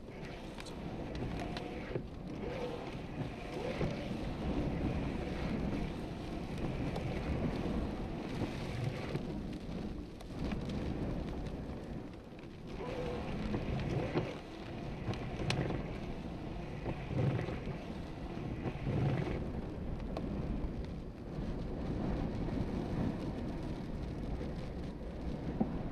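Thunderstorm rain and gusty wind, a dense rushing noise that surges and eases every few seconds, with scattered sharp ticks.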